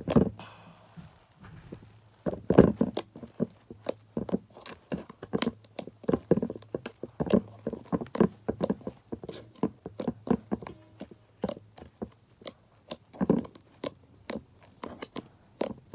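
Sticky homemade slime being kneaded and stretched by hand, giving an irregular run of short wet clicks and squelches, a few a second.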